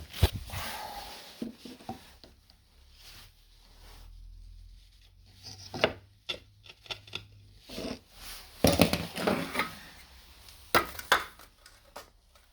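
Hammer knocks used to nudge the bottom of a marble fire surround out to level it: a single sharp knock at the start, another about six seconds in, then two quick runs of several knocks later, with handling clatter between.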